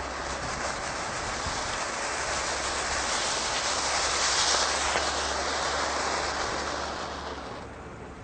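A Brothers Pyrotechnics Bonfire Party Box firework hissing and crackling continuously, loudest about halfway through, then dying away near the end.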